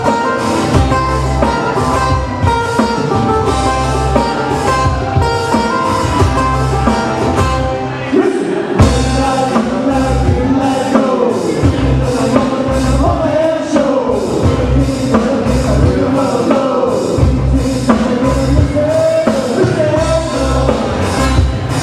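Live band playing a song with a steady beat on drum kit, bass and guitar.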